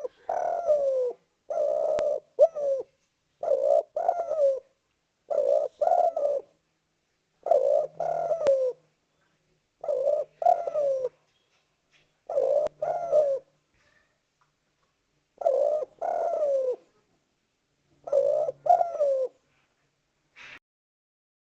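Spotted dove (tekukur) cooing: a male's loud, clear call repeated as a string of short phrases about every two seconds, each ending in a falling note.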